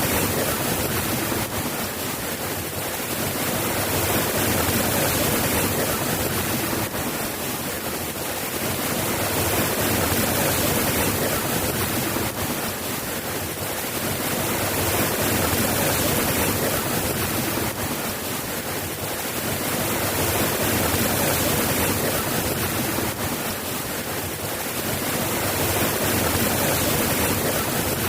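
Steady heavy rain, a dense even hiss that swells and eases slowly every six seconds or so.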